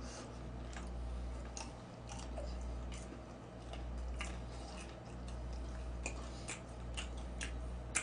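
A man chewing mouthfuls of noodles close to the microphone, with short sharp mouth clicks about twice a second over a steady low hum.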